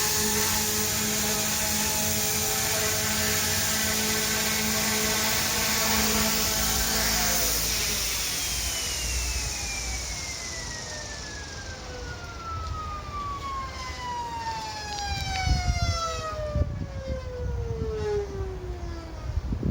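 GOOSKY E2 RC helicopter's electric motor and rotors running with a steady whine; about eight seconds in the power drops and the motor and rotors wind down in one long falling whine over about ten seconds. A few knocks and low rumbling noise come in near the end.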